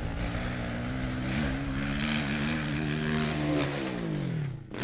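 Motocross bike engine held at a steady high pitch, with a brief blip about a second and a half in. Near the end the pitch falls away as the throttle is closed.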